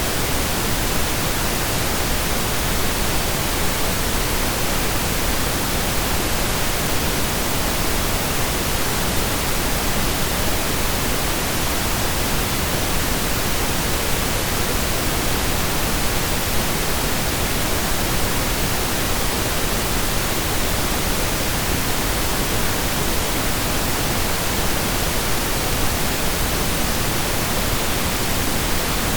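Steady synthesized pink noise: an even, unchanging hiss spread across the whole range, like steady rain or a waterfall.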